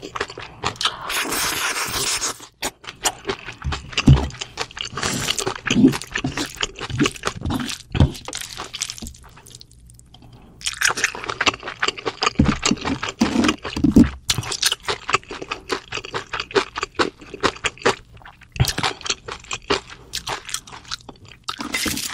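Close-miked chewing and crunching of spicy bibimbap and cold noodles with crisp vegetables, with utensils scraping on the dishes. The chewing pauses briefly about ten seconds in.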